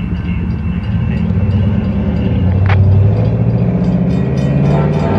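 Diesel locomotives of a CSX freight train approaching, their engines' low drone growing steadily louder, with a single sharp click partway through.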